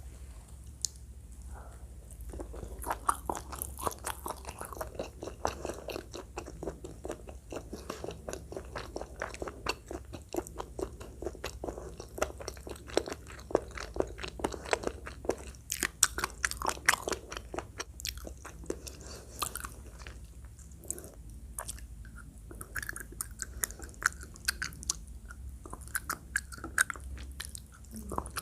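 Close-miked chewing and biting of food: a dense run of wet mouth clicks and small crunches, starting about two seconds in.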